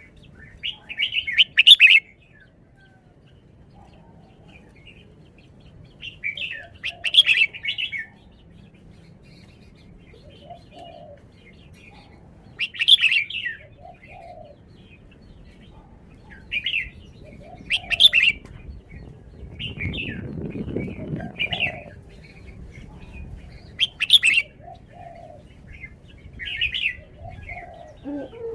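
Red-whiskered bulbul singing: short, bright chirping phrases repeated every few seconds.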